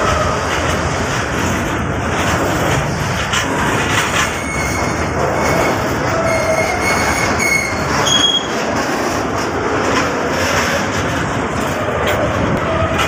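Freight train hopper wagons rolling past close by: a steady rumble and clatter of steel wheels on the rails. High-pitched wheel squeals come in several times between about four and eight seconds in.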